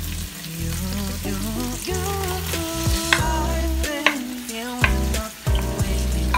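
Sliced onions sizzling in hot oil in a wok as chopped tomatoes are tipped in from a bowl and pushed off it with a wooden spatula, with a few sharp clicks. Background music with a bass line plays over it.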